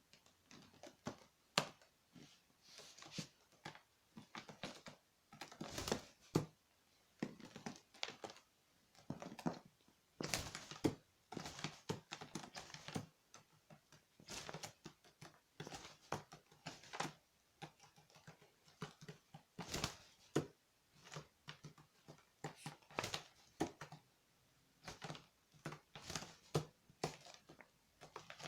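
A magpie pecking and stepping about on a hard surface: irregular sharp taps and knocks, a few louder strikes, with short scratchy rustles between them.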